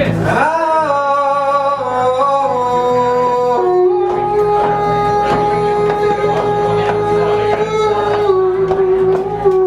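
A solo voice singing long, held notes: it slides up into the first note about half a second in, then sustains it and steps down through a few lower pitches, ending on a long low note.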